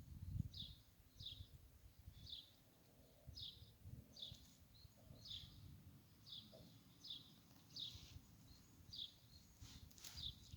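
Faint songbird repeating one short, high, falling chirp a bit more than once a second, with a low rustle underneath.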